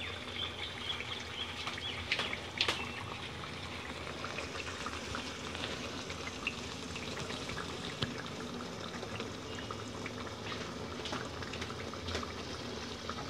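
Thick masala gravy with boneless chicken sizzling and bubbling in a non-stick kadai over a gas flame just turned up: a steady sizzle with scattered sharp pops.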